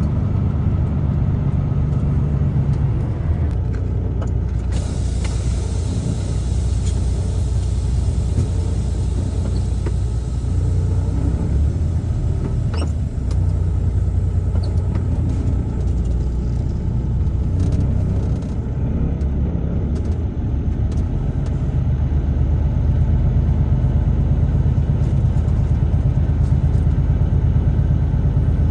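A truck driving along the road, heard from inside the cab: a steady low engine and road rumble.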